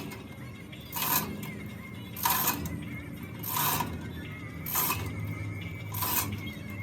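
Workshop work: a short metallic strike or stroke repeating in an even rhythm, about one every 1.3 seconds, over a low steady hum.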